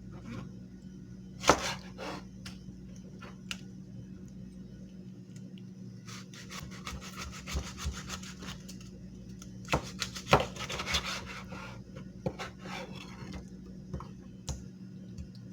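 A knife being sharpened: irregular scraping strokes of the blade across a sharpening surface, with a few sharp knocks, over a steady low hum.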